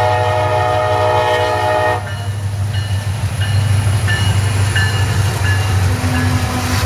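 Freight train locomotive horn sounding a chord, cutting off sharply about two seconds in, over the steady low rumble of the passing train. After the horn stops, the train keeps rumbling by with brief high-pitched squeals from the wheels on the rail.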